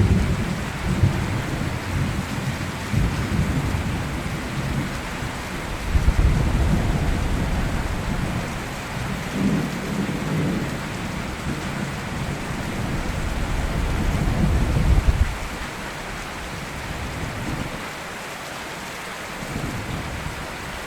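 Steady rain with rolling thunder rumbling in several waves, the thunder dying away over the last few seconds.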